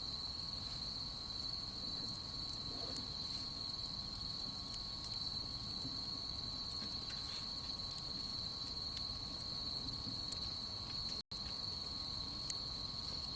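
Autumn night insects, crickets chirring in a steady, continuous high-pitched trill, with a few faint sharp ticks. The sound cuts out for an instant near the end.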